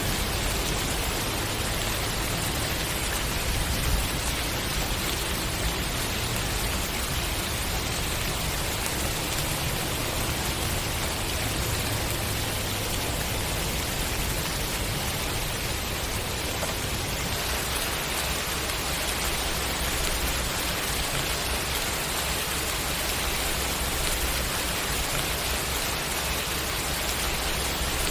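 Steady rain falling, an even, continuous hiss of dense drops with no breaks or distinct impacts.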